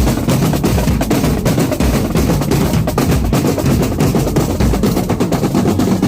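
Marching drum corps playing: snare drums rolling and striking in a dense, steady stream of hits over bass drum beats.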